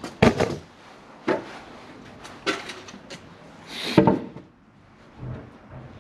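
Irregular wooden knocks and clatter of pine boards being handled and set in place, with a short sliding scrape ending in a loud knock about four seconds in.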